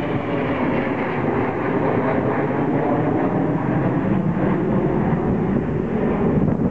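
Boeing 717's twin Rolls-Royce BR715 turbofans running at takeoff power: a loud, steady jet roar.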